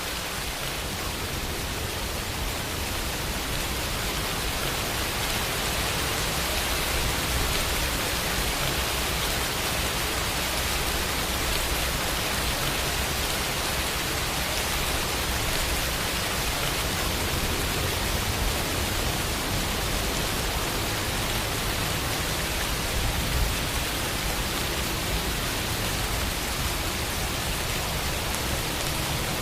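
Steady rain falling, an even hiss without a break, with a single slightly louder drop or patter about 23 seconds in.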